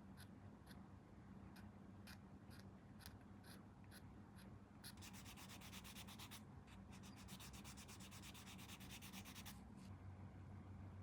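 Faint sanding or filing: a few light ticks, then two runs of quick back-and-forth rubbing strokes on a small hard part, the second run longer.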